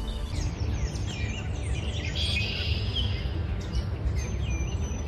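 Many small birds chirping in quick, short calls over a steady low rumble.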